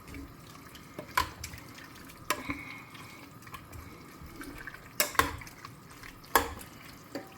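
Kitchen pots and utensils clinking and knocking now and then, about six light knocks spread over several seconds, with faint water sounds underneath.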